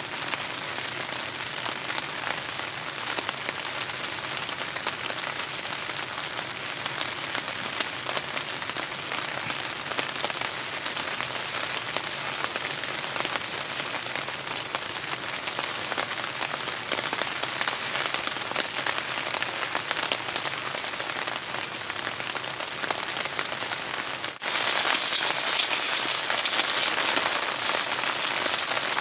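Rain falling, a steady dense pattering of drops. About 24 seconds in, the hiss abruptly grows louder and brighter.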